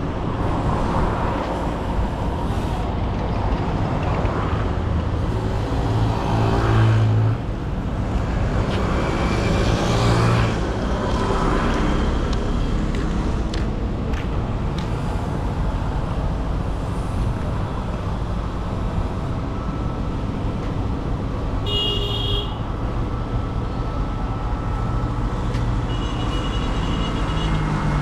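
Street traffic: vehicle engines running and passing, swelling twice in the first half, with a short horn toot about three-quarters of the way through.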